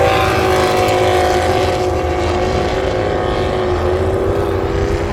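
Motorcycle engine running at steady, moderate revs with the pitch wavering slightly, over a dense low rumble.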